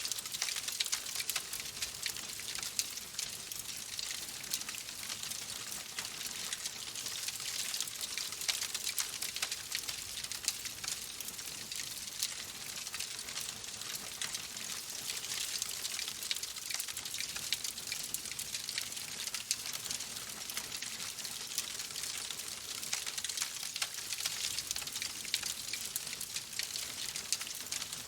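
Steady rain, a dense even hiss of falling water with many small drop ticks scattered through it.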